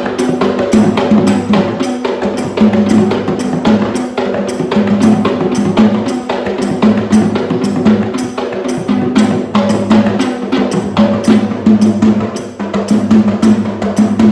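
Sri Lankan rabana frame drums played in a fast, even rhythm, about four strokes a second, over a steady pitched tone.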